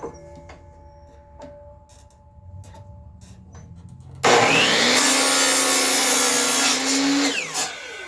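Electric miter saw switched on and cutting through a wooden board at a 45-degree angle for about three seconds, starting abruptly about halfway in, then the blade winding down with a falling whine. A few faint knocks come before it.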